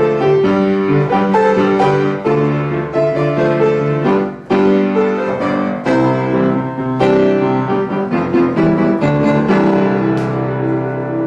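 Piano playing a pop-jazz arrangement of a ballad: chords and melody, with a short break about four and a half seconds in and a held chord near the end.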